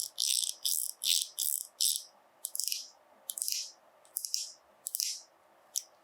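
A quick run of short, hissy scratching or rattling strokes, about two or three a second. They come further apart in the second half and end in one sharp stroke near the end.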